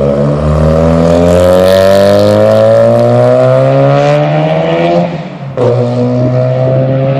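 Mazda RX-7's rotary engine accelerating hard, its note rising steadily for about five seconds. It then breaks briefly and comes back at a lower, steady pitch, like a gear change.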